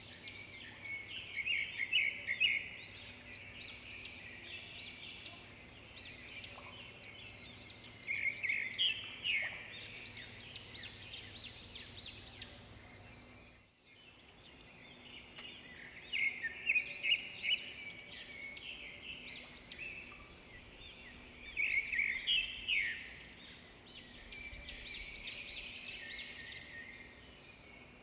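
Birds chirping and calling in a dense chorus, runs of quick, short, high notes repeated again and again, with a brief drop about halfway through.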